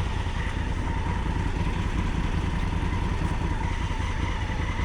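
Honda Africa Twin's parallel-twin engine running steadily, a low even rumble.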